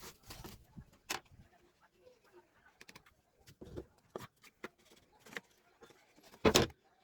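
Scattered light knocks and clicks of pieces being handled on a workbench, with one louder knock near the end.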